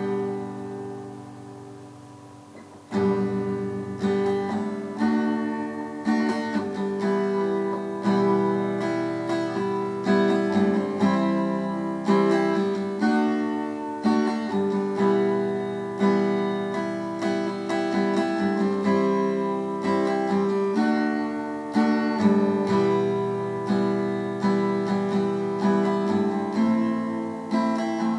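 Instrumental song intro led by guitar: a chord rings out and fades at the start, then from about three seconds in a steady picked guitar pattern runs on with no singing.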